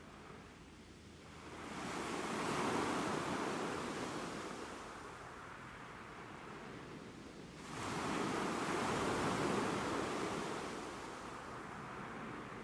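Ocean waves surging in twice, one swell building about two seconds in and a sharper one about eight seconds in, each washing back out slowly.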